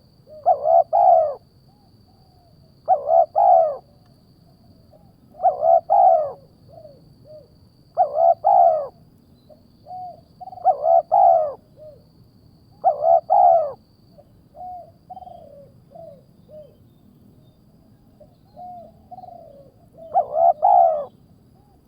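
Bird calls repeating in clusters of two or three short arched notes about every two and a half seconds, with fainter single notes between them and a pause of several seconds before the last cluster. This is a lure call meant to draw in a bird of prey.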